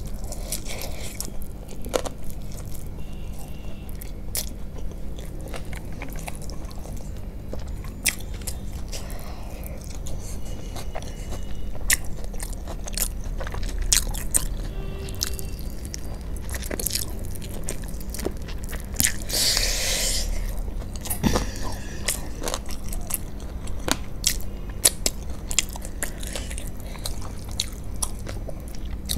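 Close-up eating sounds of fried chicken lollipops: biting and chewing with many short crunches, and one longer, louder stretch about two-thirds of the way through.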